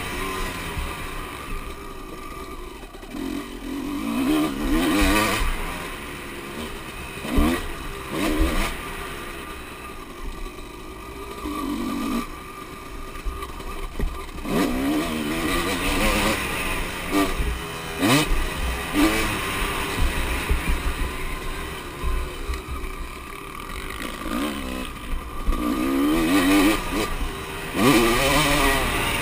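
Motocross bikes racing: engines revving up and down repeatedly as bikes pass one after another, the pitch rising and dropping with each gear change and throttle blip.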